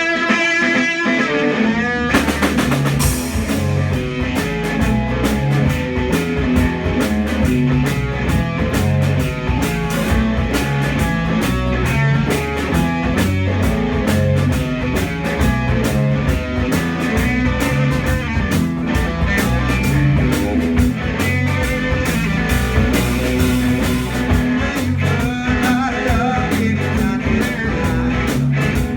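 Rock band playing live, with electric guitar, bass and a drum kit; the full band comes in about two seconds in after a lighter opening.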